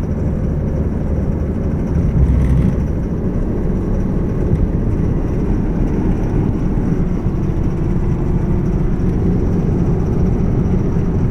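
2002 Ford Mustang accelerating: steady engine and drivetrain noise with the rattle that shows up under acceleration, a fault the owner has not yet traced.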